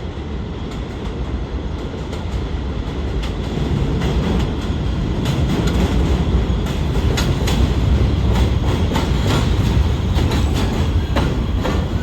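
R211 subway train running on the track, a heavy rumble with wheels clicking over rail joints. The rumble grows louder about four seconds in, and the clicks come thick from about five seconds to near the end.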